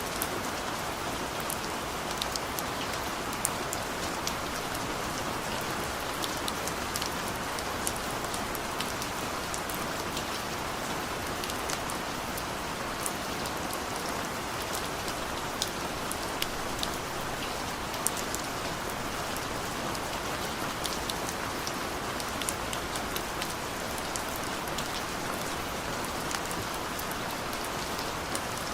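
Steady rain falling, with many separate drops ticking sharply over an even hiss.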